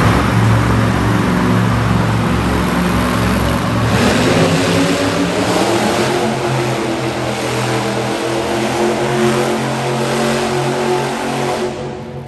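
Monster truck engine at high revs: the pitch climbs for a couple of seconds, holds steady, then the sound drops away sharply near the end.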